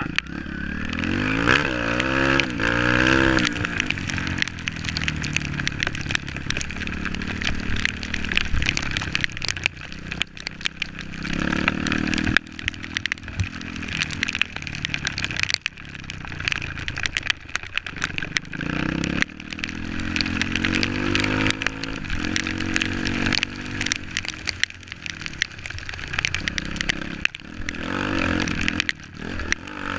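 Off-road trail motorcycle engine revving in repeated surges, its pitch climbing and falling again every several seconds, with many sharp knocks and rattles throughout.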